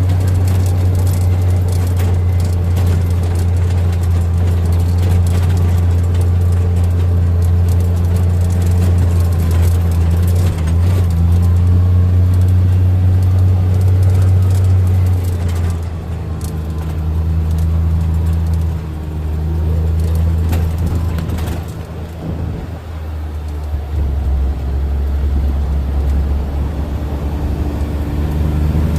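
Vehicle engine and road noise heard from on board while riding: a steady low drone whose pitch and loudness shift about halfway through and again later, as the vehicle changes speed.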